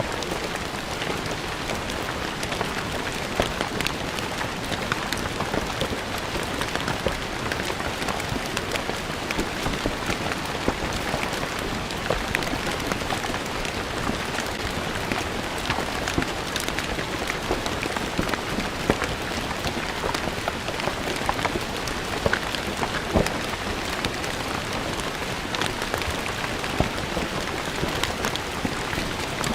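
Steady rain falling on stone paving, an even hiss with many scattered drop ticks.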